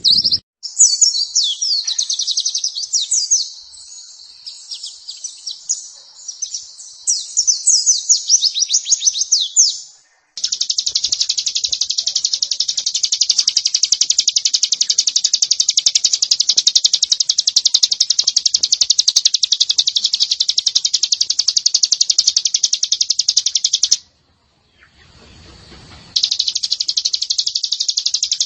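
White-eye (pleci) song: quick high twittering chirps, then from about ten seconds in a long, very fast unbroken trill. The trill breaks off for about two seconds and starts again near the end.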